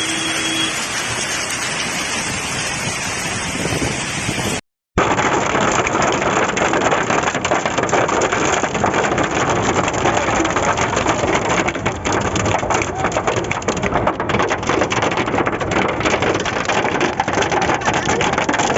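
Hailstorm: heavy rain and hailstones pelting down, a dense steady hiss dotted with countless sharp impacts. The sound cuts out for a moment about five seconds in, then resumes.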